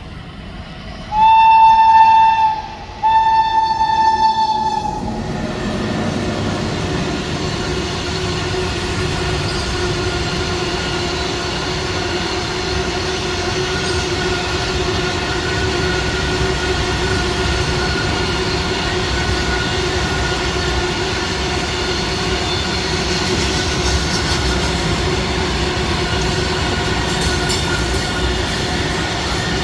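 Train horn sounding two loud blasts, the second a little longer, then a train running past steadily with a continuous hum and rumble.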